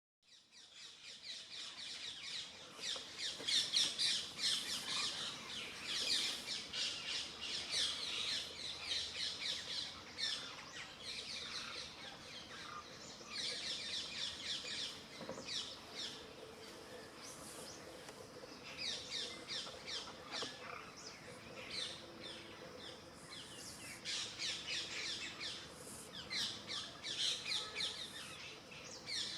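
Many birds chirping and calling at once in a dense, continuous chorus of quick high chirps, fading in over the first couple of seconds.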